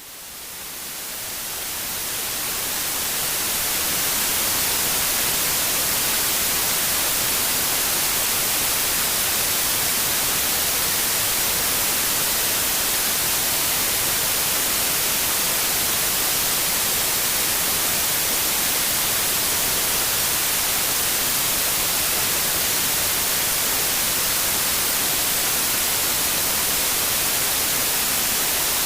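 Steady white noise, an even hiss strongest in the treble. It fades in over the first few seconds.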